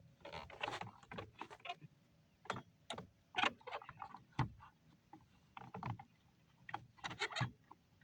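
Plastic wheel covers being pushed and knocked against a car wheel: irregular clicks, knocks and scraping clatters as they are forced on but will not snap into place.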